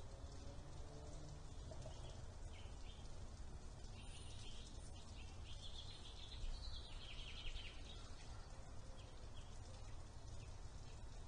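Faint outdoor ambience: a steady low rumble with birds chirping in the background, building into a short stretch of birdsong about four to seven seconds in.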